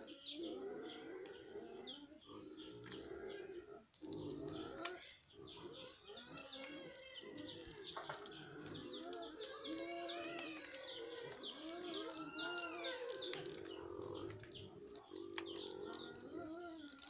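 Birds chirping and calling, with many short high chirps and arching calls, over a lower wavering call. Scattered light clicks run through it.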